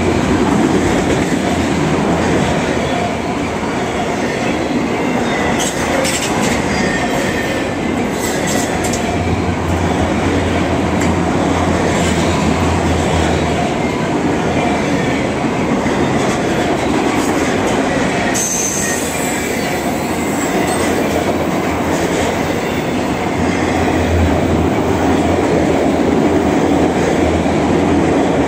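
Freight train of autorack cars rolling past close by: a steady rumble of steel wheels on rail, with clicks at times and a faint wheel squeal through the middle.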